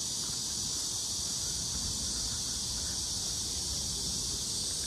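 Steady, high-pitched chorus of summer cicadas buzzing without a break, over a low rumble.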